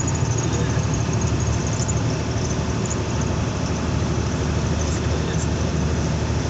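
Truck engine running steadily with road noise, heard from inside the moving vehicle.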